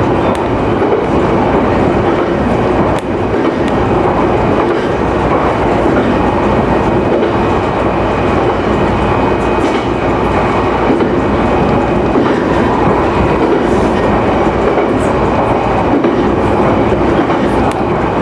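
Electric local train running along the line, heard from inside the front car: a steady rumble of wheels on rail, with occasional faint clicks as the wheels pass over rail joints.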